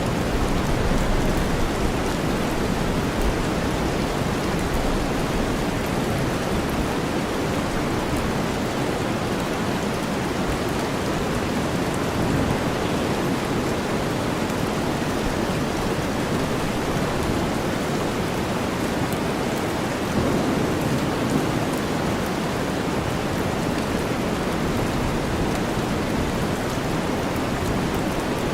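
Steady rain blended with deep white noise, an unbroken hiss weighted toward the low end, with a slight swell about two-thirds of the way through.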